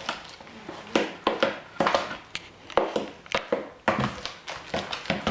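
Spoon stirring thick cake batter in a mixing bowl, knocking and scraping against the bowl in an irregular run of taps.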